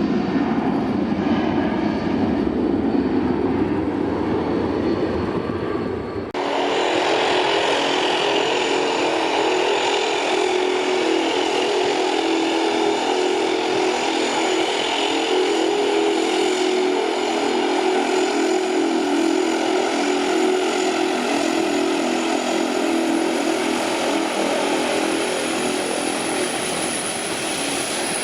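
A business jet's engines running, then, after a sudden cut about six seconds in, a YS-11EB turboprop's Rolls-Royce Dart engines and propellers running steadily with a hum of several held tones and a thin high whine.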